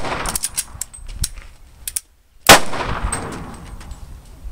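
A single loud handgun shot about halfway through, dying away in a long echo. Before it, the fading tail of an earlier shot and a few small metallic clicks.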